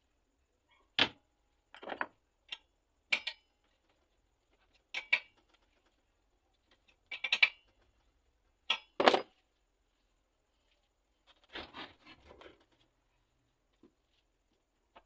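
Irregular knocks and clatters of tools or parts being handled and set down, with a short rustling scrape near the end. No motor is running.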